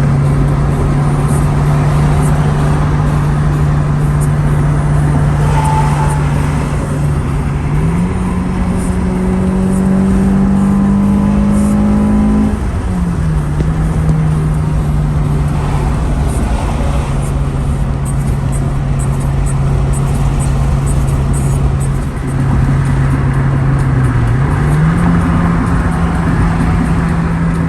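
Honda Integra's B18C four-cylinder engine pulling steadily under way, its note climbing as it accelerates, dropping sharply about halfway through as it shifts up, then rising again near the end.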